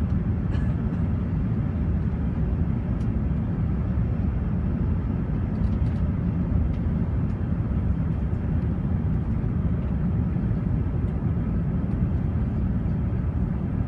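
Airbus A380 cabin noise heard from the upper deck: a steady low rumble of engines and airflow, unchanging in level.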